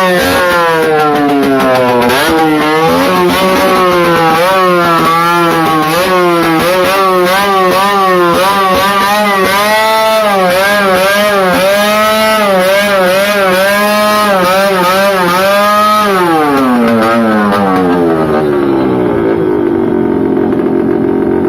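Motorcycle engines with loud aftermarket open 'brong' exhausts being revved over and over, the pitch rising and falling, before winding down about three-quarters of the way through.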